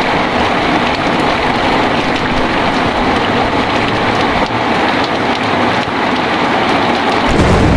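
Heavy rain pouring steadily as a dense, even hiss. Near the end a deep, low rumble sets in underneath it.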